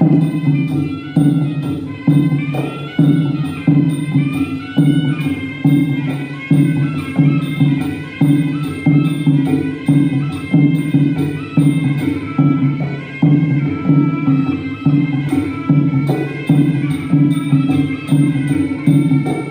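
Traditional Khmer boxing music: a wavering reed-pipe melody over a steady, evenly repeating drum beat, with small cymbal ticks keeping time.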